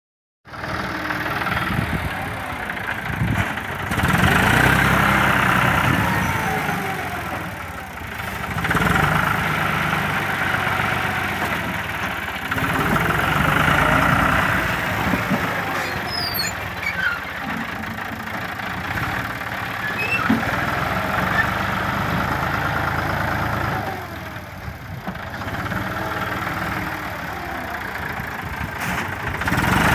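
A tractor engine running continuously, growing louder for several seconds at a time and then easing back, several times over.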